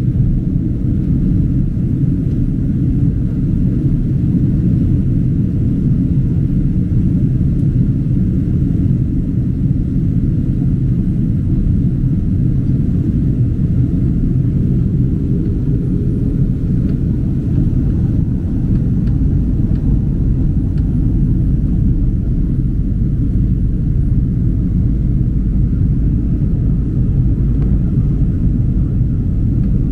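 Steady low rumble of engine and airflow noise inside the cabin of a Boeing 767-300 airliner in flight.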